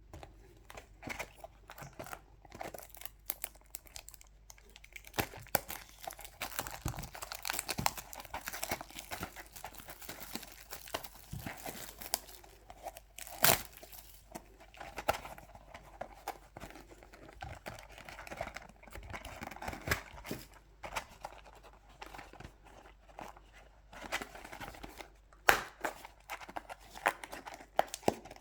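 Plastic packaging of a Pokémon card booster bundle being torn open and crinkled, with many small crackles and two sharper snaps, one about halfway and one near the end.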